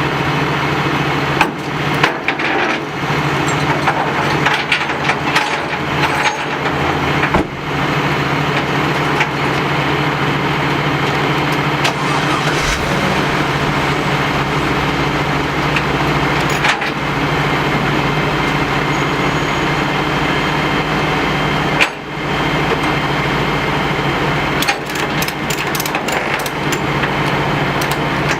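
Flatbed tow truck's engine running steadily, with scattered clunks and rattles throughout.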